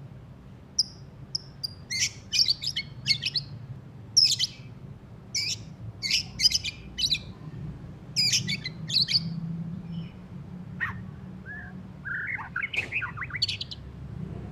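White-rumped shama singing in short bursts of rapid, high chattering notes, with a lower, rougher phrase near the end. The bird has just finished moulting, and its song is still rough chattering.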